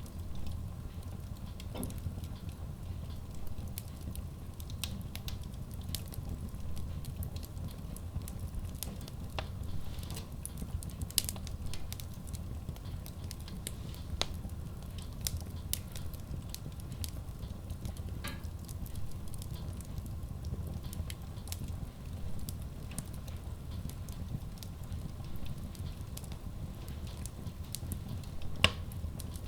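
Wood fire burning in a Kratki Koza K6 stove-fireplace: a steady low rumble with frequent sharp crackles and pops, and two louder pops, one near the middle and one near the end.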